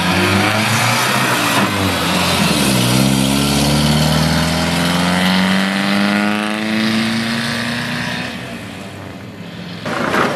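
Vintage car engine accelerating away. The pitch dips at a gear change about three seconds in, then climbs steadily and fades as the car draws off into the distance.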